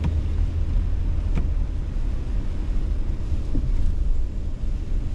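Car driving on a snowy road, heard from inside the cabin: a steady low rumble of engine and tyre noise, with a few faint knocks.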